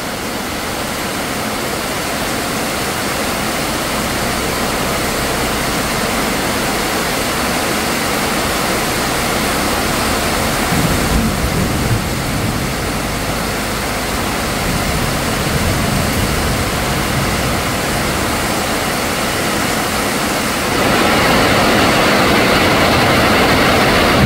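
Heavy rain pouring steadily onto a corrugated sheet-metal roof, a dense, even hiss that gets louder near the end.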